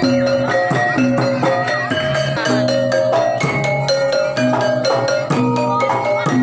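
Javanese gamelan music: struck bronze metallophones playing a steady, rhythmic melody of ringing notes.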